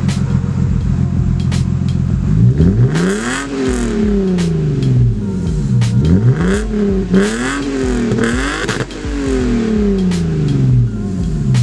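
Lexus IS300's 2JZ inline-six engine, running through a newly installed exhaust Y-pipe. It idles steadily, then is revved repeatedly from about two and a half seconds in, the pitch rising and falling with each rev. The last rev drops slowly back toward idle near the end.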